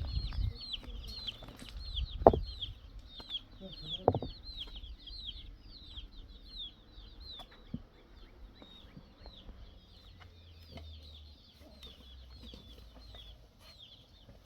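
Chicks peeping over and over, several short falling chirps a second, getting fainter toward the end. Two loud knocks, about two and four seconds in.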